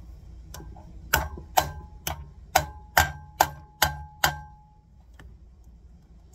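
Hammer blows knocking a sealed bearing into a rear wheel hub to seat it fully: about eight sharp metallic strikes, roughly two a second, each ringing briefly, stopping a little past four seconds in.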